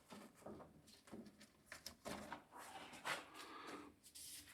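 Faint, irregular handling sounds on the grinder's motor and belt: light rubbing and small knocks, near the level of room tone.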